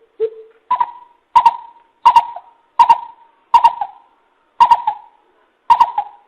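Coucal (bìm bịp) calling: a series of deep hooting notes, the first low, then the rest a step higher at about one every 0.7 seconds, slowing slightly near the end.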